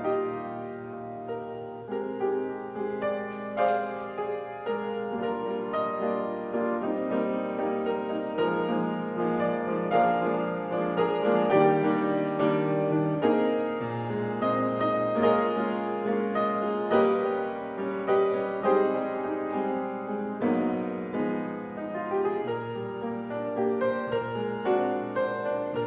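Solo piano playing a slow piece of sustained notes and chords.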